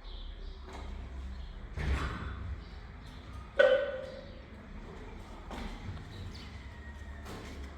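Handling noises: a dull knock about two seconds in, then a sharp ringing clink, as of metal or glass being struck, a little over three and a half seconds in, over a low steady hum.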